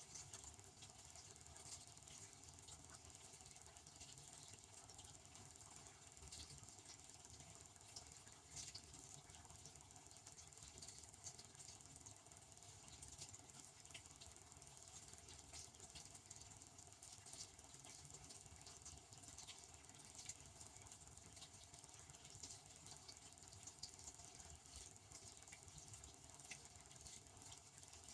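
Devanti benchtop dishwasher running, faint: a steady low hum with a soft, irregular pattering of water spraying inside.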